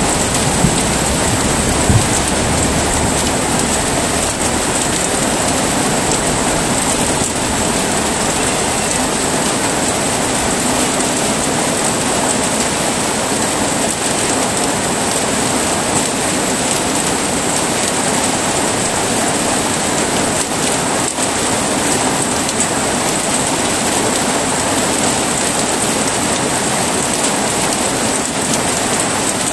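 Heavy rain falling steadily, an even hiss with no let-up. The low rumble of thunder dies away in the first couple of seconds.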